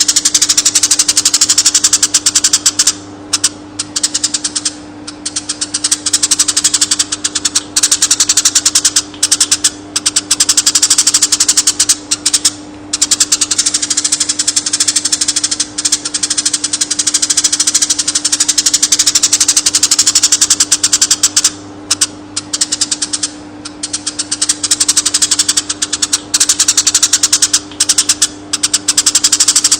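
Konin bird song: a loud, unbroken stream of very rapid, high-pitched chattering notes, pausing briefly every few seconds, over a steady low hum.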